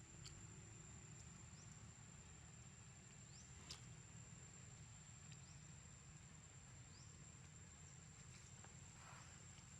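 Near silence: faint steady background rumble with a thin high whine and a few faint clicks.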